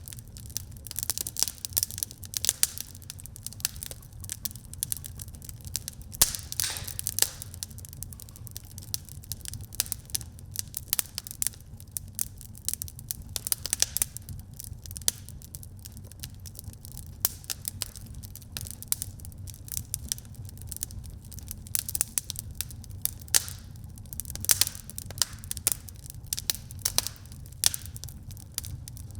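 Wood fire crackling in a fireplace: many irregular sharp pops and snaps, some louder clusters, over a steady low rumble of the burning fire.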